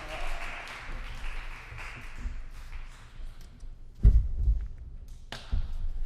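Audience applause dying away over the first couple of seconds. It is followed by scattered knocks and two heavy thumps, the loudest about four seconds in.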